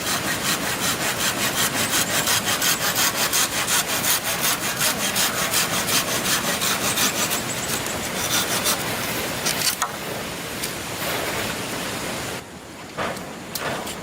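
Hand saw cutting through wood in quick, even strokes, about three or four a second; after about ten seconds the strokes turn uneven and sparse.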